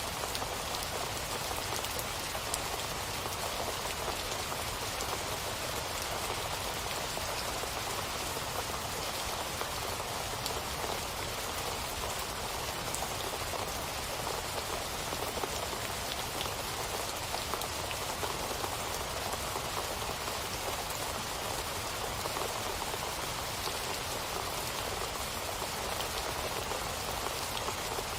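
Steady rain falling on a surface, an even hiss with faint scattered drop ticks and no change in intensity.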